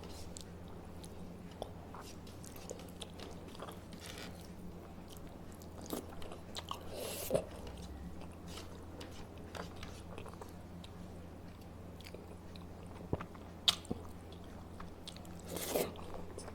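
A person eating close to the microphone: soft chewing and mouth clicks, with a few louder bites or smacks about seven seconds in, around thirteen seconds and near the end. A steady low hum runs underneath.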